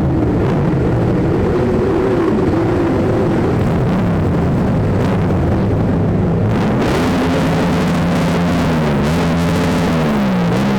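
Motorcycle engines running and revving, their pitch rising and falling, louder and harsher during the second half.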